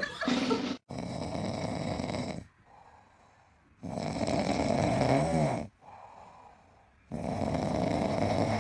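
Snoring from a sleeping pet: three long, loud snores about three seconds apart, the last cut off abruptly.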